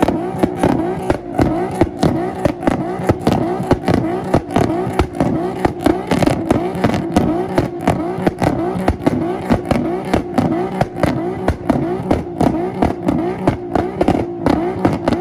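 Car engine held on a two-step launch-control rev limiter: a steady high rev cut by sharp pops and bangs about three times a second.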